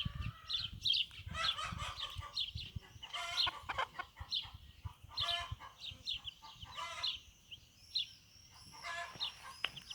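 Bantam chicks peeping constantly in short, high notes, with the mother hen's lower clucks and calls mixed in.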